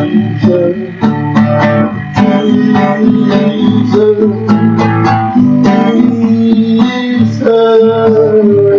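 Worship song: strummed acoustic guitar accompaniment with long held sung notes between the lines of the chorus.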